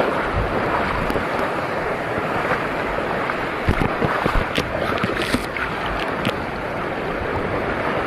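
Sea water washing and splashing in the shallows with wind on the microphone, a steady rushing noise broken by a few short sharp splashes or knocks around the middle.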